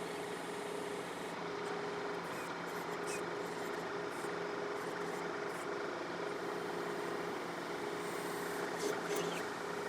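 Diesel engine of a John Deere 4052R compact tractor running at a steady speed, with a brief knock about nine seconds in.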